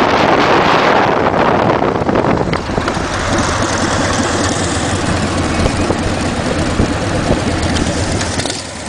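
Motorcycle engine running on the move, with heavy wind noise that is loudest for the first two or three seconds and then eases.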